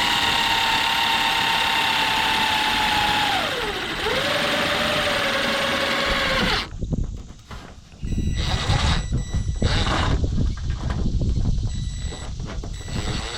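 Cordless drill running while driving a roofing screw through metal roof panel: a steady motor whine that drops in pitch as the screw bites, then runs on lower and cuts off suddenly about halfway through. After a short pause, loud irregular rustling and handling noise follows.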